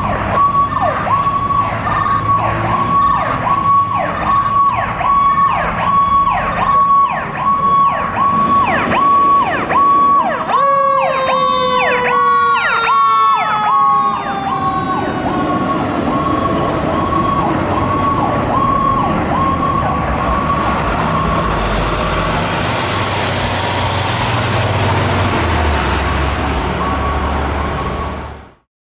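Fire truck siren sounding as the ladder truck responds: a high tone broken by rapid repeated downward dips. About ten seconds in, several tones slide down in pitch as the truck passes. The siren then carries on more steadily over engine and road noise, and the sound cuts off abruptly near the end.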